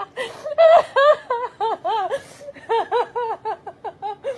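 Husky "talking": a quick run of short whining yips, each rising and falling in pitch, about three or four a second with a brief pause midway, a jealous protest while the kitten gets petted.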